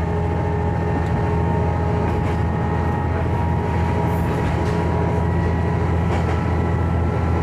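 Diesel railcar running along the line: a steady engine drone with a constant hum of even tones over the noise of the wheels on the rails, and a few faint clicks.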